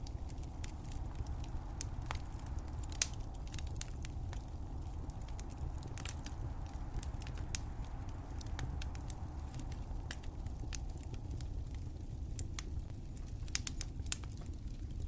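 Fireplace fire crackling: scattered sharp pops and snaps over a steady low rumble, with one louder pop about three seconds in.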